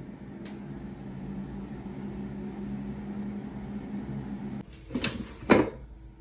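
Ninja air fryer running with a steady fan hum, which cuts off suddenly a little over four and a half seconds in. Two sharp knocks follow about half a second apart, the second louder.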